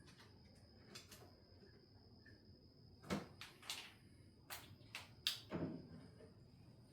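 Scattered metallic clicks and knocks of hand tools working a wiring-harness ground bolt loose at the back of a cylinder head. There are about seven short knocks, most of them bunched in the second half.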